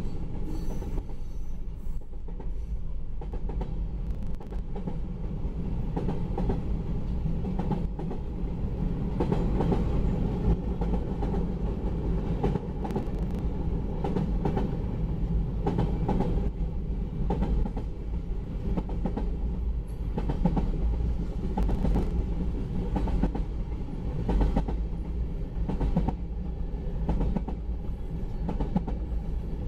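Long freight train rolling past, a steady low rumble of wheels on rail with irregular clicking as the wheels cross rail joints.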